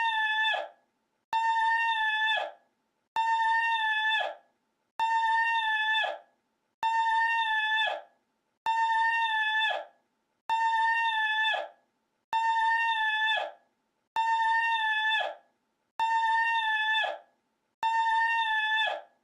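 The same short call repeated in a loop, about ten times: a held, horn-like tone of about a second that bends down in pitch as it cuts off, coming back roughly every two seconds with identical copies each time.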